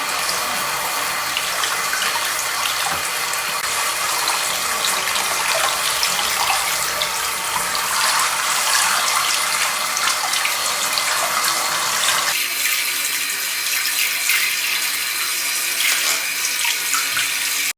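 Tap water running steadily, pouring during a puppy's bath. About twelve seconds in, the deeper part of the sound drops away and the water sounds thinner.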